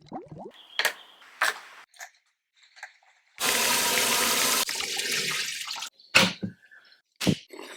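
Water running from a kitchen tap for about two and a half seconds, turned off sharply. A few light clicks come before it, and sharp knocks follow.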